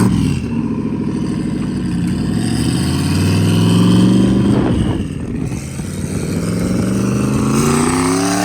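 Turbocharged LS1 V8 in a BMW E46 revving hard through a side-exit exhaust, its pitch sliding down, climbing, dropping off briefly about halfway through, then climbing again.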